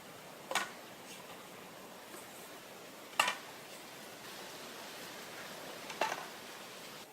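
Three sharp, short knocks, spaced about two and a half to three seconds apart, over a steady faint hiss.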